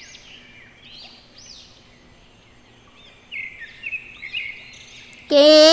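Faint, short, high-pitched chirps like birdsong, in a sparse scatter that grows a little busier about three seconds in. A child's singing voice comes in near the end.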